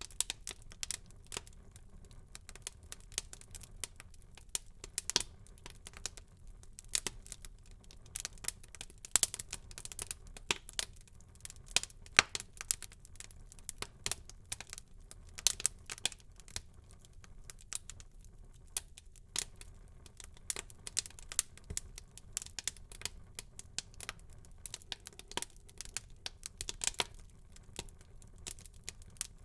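Wood fire burning in a fireplace, crackling and popping with many irregular sharp snaps over a faint low rumble of the flames.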